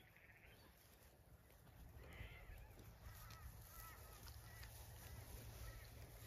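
Near silence with faint bird calls: a string of short chirps from about two seconds in.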